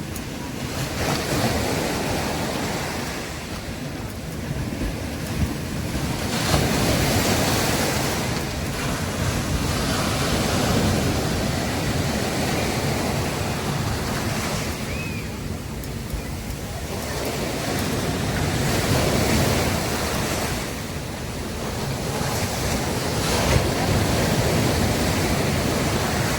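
Sea waves breaking on a beach, the surf surging and washing back in slow swells every few seconds.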